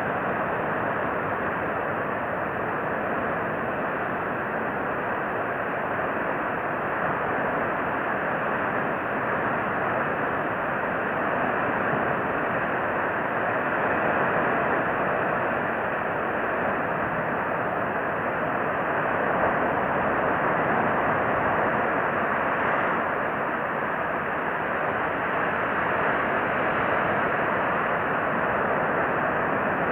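Steady, even rushing background noise with no distinct calls or events.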